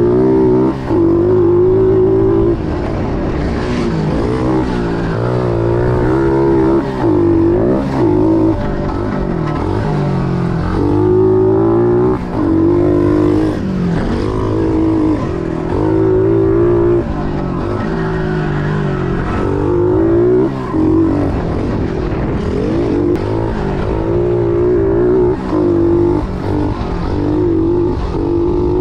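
Pit Pro pit bike's single-cylinder engine being ridden hard, revving up again and again with the pitch climbing through the gears and dropping back briefly at each shift or throttle-off, every few seconds.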